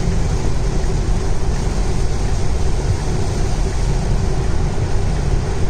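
Heavy rain on a moving car's roof and windscreen, with tyres on a soaked road, heard from inside the cabin as a steady loud rushing noise.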